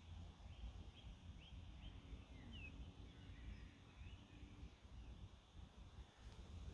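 Very quiet outdoor sound: faint bird chirps, a quick run of short high notes in the first few seconds and a few scattered ones later, over a low steady rumble.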